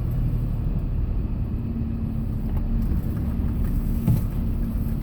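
Steady low rumble of a Hyundai Porter II box truck on the move, engine and road noise heard from inside the cab. A faint steady hum comes in about one and a half seconds in, and there is a brief knock near four seconds in.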